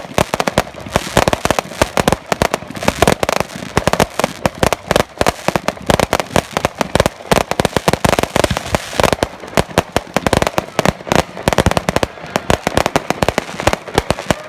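Fireworks display: a dense, continuous barrage of sharp bangs, many per second.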